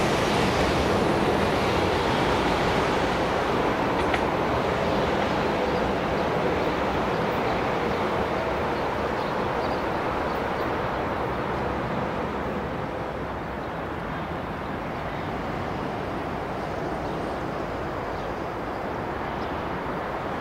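Renfe train running on the line, a dense rumble that slowly fades as it moves away.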